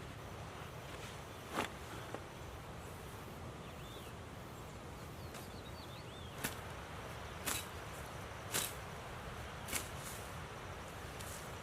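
Steady rush of river water with a series of sharp knocks or snaps, one early and then about one a second in the second half, and a few faint high chirps.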